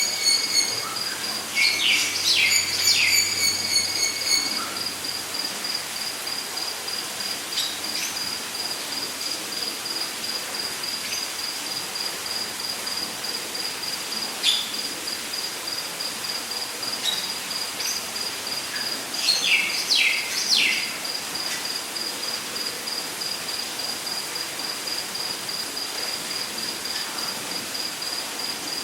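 Rainforest ambience: an insect trilling a steady, rapidly pulsed high note throughout, and a second buzzing insect that stops about four seconds in. Birds give quick chirping calls in short flurries near the start and about two-thirds through, with single chirps between, over a steady hiss of falling water.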